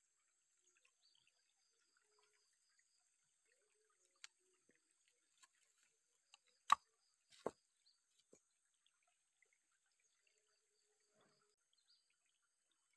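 Quiet outdoor ambience with a faint, steady high insect buzz and scattered small ticks. Two sharp knocks come a little past the middle, the first the louder.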